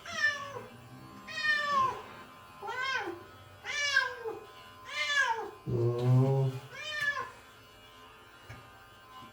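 Domestic cat meowing repeatedly while being held for clipping: about six drawn-out meows, each rising then falling in pitch.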